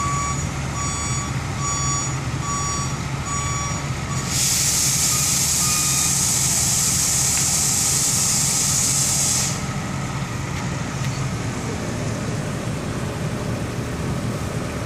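Heavy diesel machinery running steadily while a reversing alarm beeps evenly for about the first four seconds. Then a loud hiss of released air lasts about five seconds and cuts off sharply.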